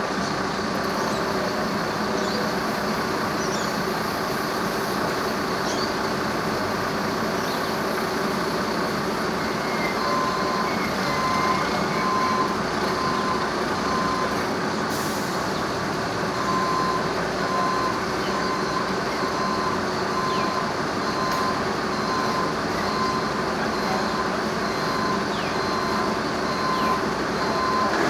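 A heavy vehicle's engine running steadily, joined from about ten seconds in by a repeating electronic beep that comes and goes.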